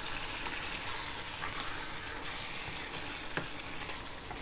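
Chicken pieces and chopped bell peppers in a thick sauce sizzling in a pan as they are stirred, a steady hiss with a couple of light clicks of the utensil against the pan.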